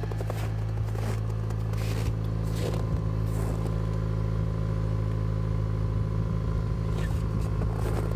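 2013 Hyundai Santa Fe Sport's 2.0-litre turbocharged four-cylinder engine idling steadily during a cold start at −25 °C with no block heater, with a few faint scrapes on top.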